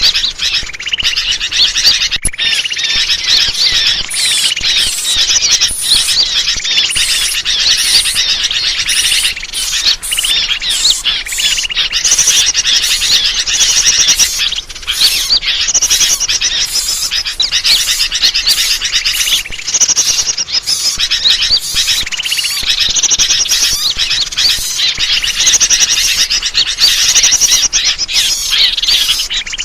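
Dense, loud chorus of many small birds chirping and trilling over one another without a break: a bird-lure (pikat) recording meant to draw in wild birds.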